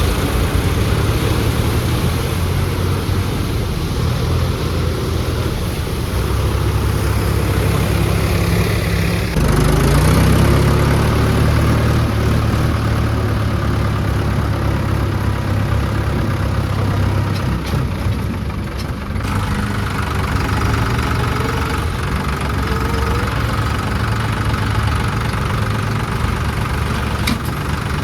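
Tractor diesel engine running steadily, revving harder about nine seconds in and then settling back.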